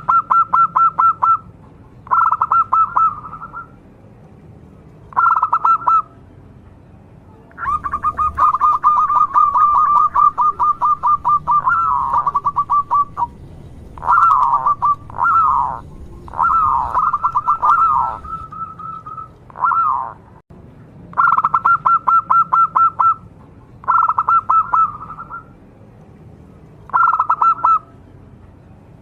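Zebra dove (perkutut) cooing in repeated phrases of rapid staccato notes, each phrase a second or two long with short pauses between, and a longer, more varied run of notes in the middle.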